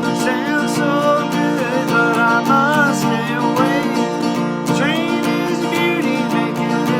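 Country music on strummed acoustic guitar, with a melody line that bends and slides above the held chords.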